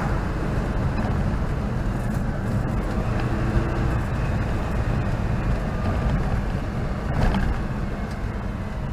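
Citroën 2CV's air-cooled flat-twin engine running steadily on the move, with road and tyre noise, heard from inside the cabin; no rattles or bangs. A short knock sounds about seven seconds in.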